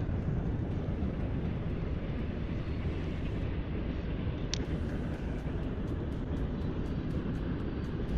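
Wind buffeting the microphone outdoors: a steady low rumbling noise with no engine-like pitch, with one brief high chirp about halfway through.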